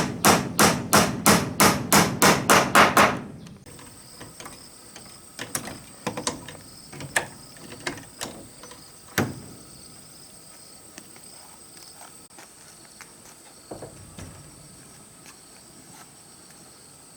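Rapid, regular hammer blows, about four a second, that stop a little after three seconds in. Then a few scattered, lighter knocks over a steady, high cricket trill.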